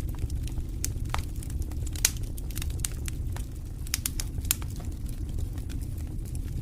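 Campfire burning, with irregular crackles and sharp pops over a steady low rumble; the loudest pop comes about two seconds in.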